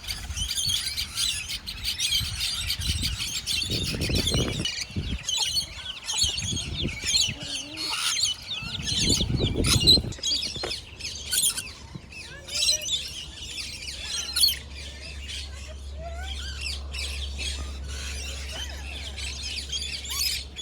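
Many small birds chirping and twittering continuously, a dense aviary chorus. Low rumbles of handling noise come around four and nine seconds in, and a low steady hum sets in about halfway.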